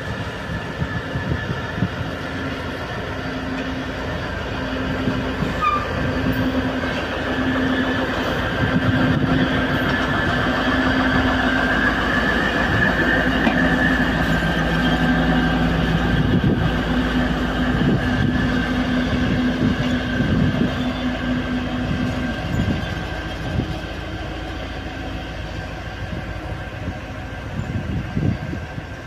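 A train moving on the tracks: a steady low hum from the locomotive with a higher whine above it, and irregular clicks and knocks from the wheels on the rails. It grows louder from about 8 seconds in and eases off after about 22 seconds, when the hum stops.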